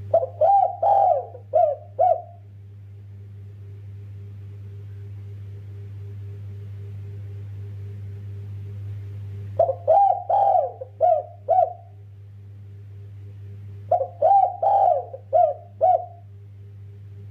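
Spotted dove (derkuku) cooing: three phrases of about five quick coo notes each, one at the start, one about ten seconds in and one about fourteen seconds in. A steady low hum runs underneath.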